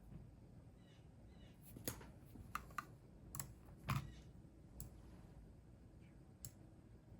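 A few slow, irregular key presses on a computer keyboard: about seven separate clicks, the loudest about four seconds in.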